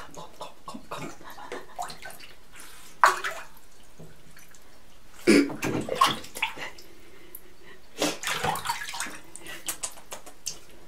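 Water splashing and sloshing in a tub in three short bouts, about three, five and eight seconds in, as a red-throated loon moves and dabs after minnows in the water.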